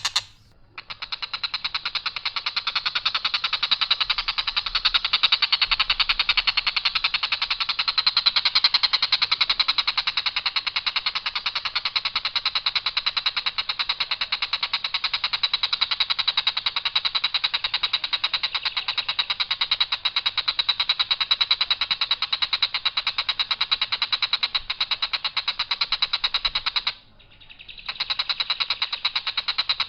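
Tengkek buto kingfisher giving its long, harsh, rapid rattling call, a steady run of fast pulses held for many seconds, pausing briefly near the start and again about 27 seconds in.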